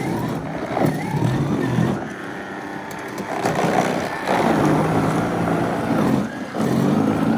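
Gas snowblower engine running under load while clearing deep, wet snow, its pitch sagging and recovering several times as it works.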